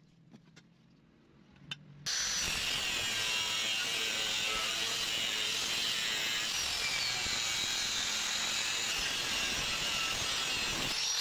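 Angle grinder with an abrasive cut-off disc cutting through steel angle iron. It starts suddenly about two seconds in, after a few faint clicks, then runs as a steady high-pitched whine and grind that drifts a little in pitch under load. It cuts off suddenly at the end.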